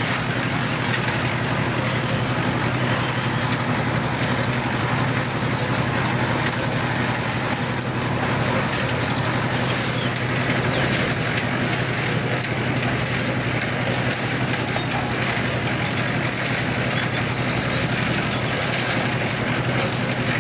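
Steady mechanical running noise: a low hum under a broad hiss, even and unbroken.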